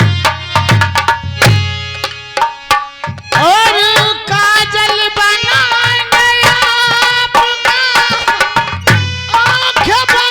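Live Indian folk music interlude: hand-drum strokes for the first few seconds, then a sustained, bending melody line enters over the drum rhythm about three seconds in.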